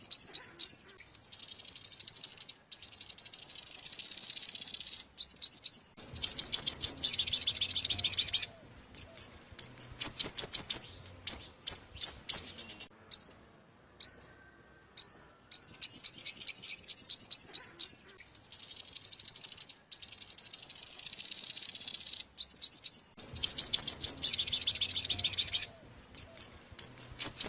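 Sunbird song: rapid runs of sharp, high chip notes alternating with longer buzzy trills, in phrases a second or two long with short gaps. The same sequence of phrases comes round again after about 14 seconds, the mark of a looped recording played as a lure for trapping.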